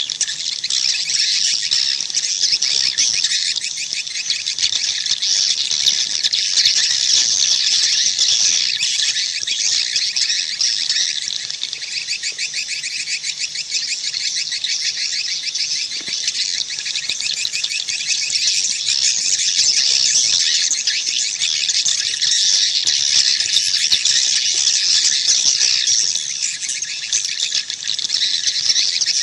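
Many edible-nest swiftlets twittering together in a continuous, dense, high-pitched chatter of rapid trills. This is a swiftlet call recording of the kind played at a swiftlet house to lure the birds in.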